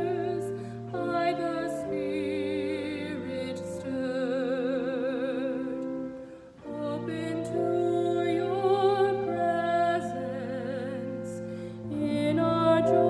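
Music: a singer holding long notes with vibrato over a steady sustained accompaniment, with a short break between phrases about halfway through.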